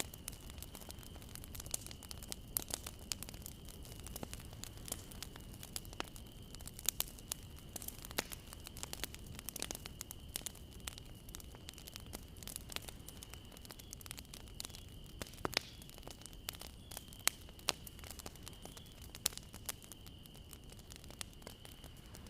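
Bonfire crackling: irregular sharp pops and snaps of burning wood, several a second, over a low steady rumble of flame.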